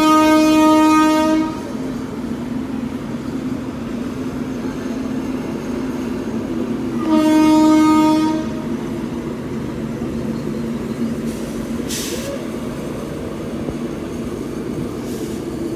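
Locomotive horn sounding two long blasts, the first ending about a second and a half in and the second coming about seven seconds in, over the steady rumble of the express train running on the track.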